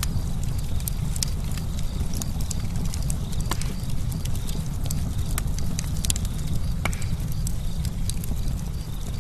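Campfire burning, with a steady low rumble and frequent sharp, irregular crackles and pops of burning wood.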